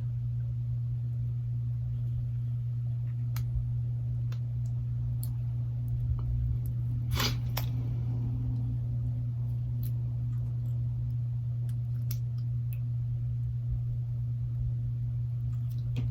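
Small sharp clicks and taps of a smartphone's flex-cable connectors being pressed onto the board, sparse, with a short cluster about seven seconds in. A steady low hum runs underneath throughout.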